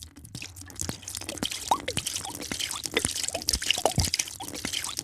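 A drink being poured, liquid splashing and dripping into a container in many small drips and bubbly plops. It gets busier about a second in.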